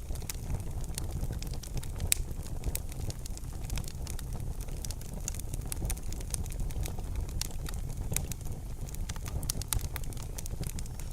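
Wood fire burning in a fireplace, crackling with frequent irregular sharp pops over a steady low rumble. One pop about two seconds in is louder than the rest.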